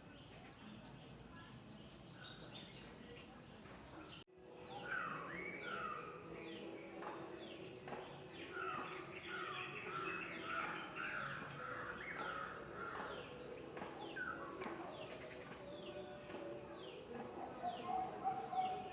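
Outdoor bird chorus: several wild birds calling, with many short, quick falling chirps repeating throughout. A brief gap about four seconds in.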